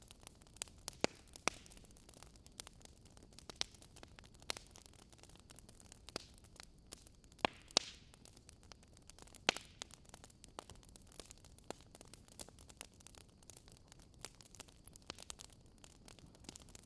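Campfire crackling: burning wood giving off irregular sharp pops and snaps over a faint steady hiss, with a few louder pops about a second in, around seven and a half seconds and near nine and a half seconds.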